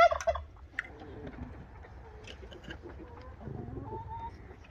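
Birds calling: a loud, pitched call right at the start, then quieter scattered calls and a short, higher call near the end.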